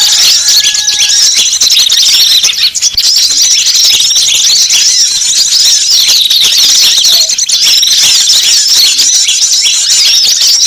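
A dense, continuous chorus of high, rapid chirps and twitters from many small birds. It is a bird-lure (pikat) recording that mixes the calls of several small wild bird species to draw wild birds in, and it dips briefly about three seconds in.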